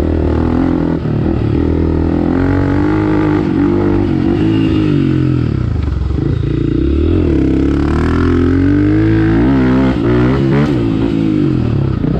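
Honda CRF250F single-cylinder four-stroke dirt bike engine pulling through the gears on a trail ride, the revs rising and falling over and over as the throttle is opened and closed, with a few quick blips near the end.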